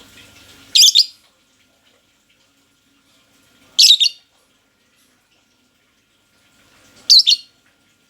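Lovebird giving three loud, shrill double chirps, each about half a second long and roughly three seconds apart.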